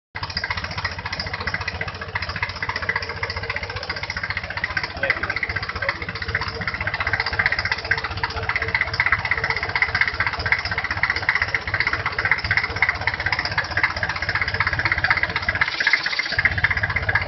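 Mitsubishi 4D30 four-cylinder diesel engine running steadily with a fast, even firing rhythm. The deep part of the sound drops out briefly near the end.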